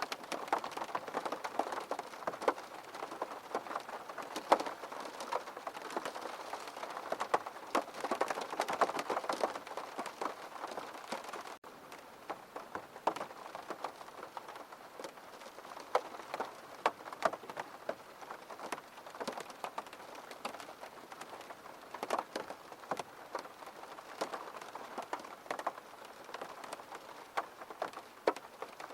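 Steady rain, with many individual drops ticking sharply on a hard surface over a continuous wash of rainfall. A brief break comes about twelve seconds in, after which the rain is a little softer.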